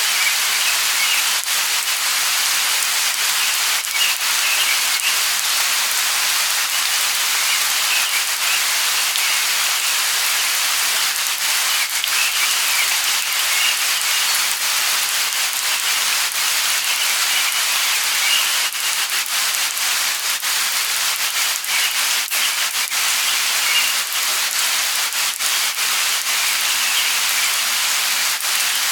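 Light rain falling steadily, with single drops ticking close by. Faint high bird chirps come and go above the hiss of the rain.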